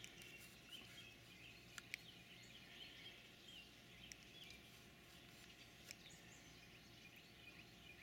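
Faint outdoor quiet with small birds chirping softly in the background, and a few brief faint clicks about two seconds in and again near six seconds.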